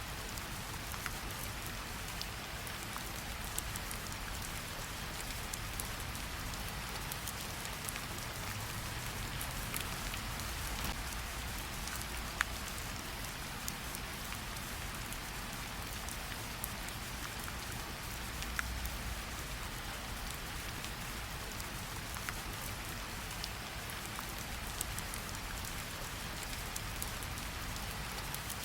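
Gentle rain falling on tree leaves: a steady patter with scattered sharper drips landing now and then.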